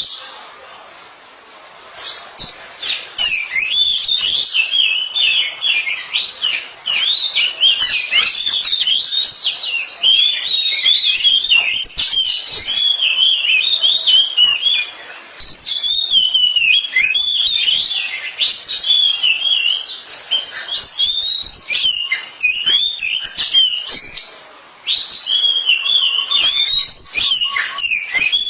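Oriental magpie-robins singing a long, varied song of rapid whistles and chirps, broken by short pauses about two seconds in, near the middle and near the end.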